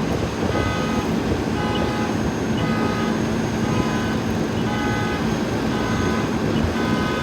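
Large vehicle engine running steadily, with a repeating electronic beep of several tones sounding about once a second, like a vehicle's warning alarm.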